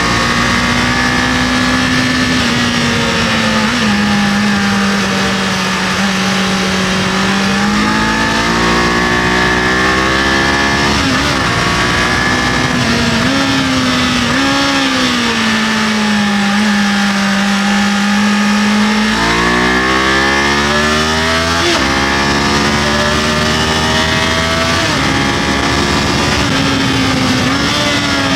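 Kawasaki KLE500's parallel-twin engine under way, its note falling and rising with the throttle through the gears. There is a sharp step up in pitch a third of the way in and a quick climbing rev about two-thirds through.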